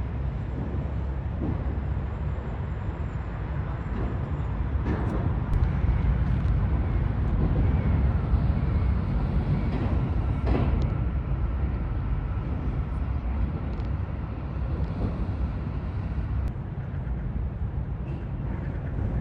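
Steady low background rumble with a few faint knocks scattered through it.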